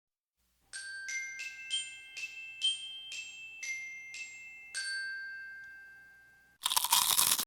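Short intro melody of about ten struck glockenspiel-like bell notes, the last one ringing out and fading. It is followed near the end by a brief, loud burst of noise.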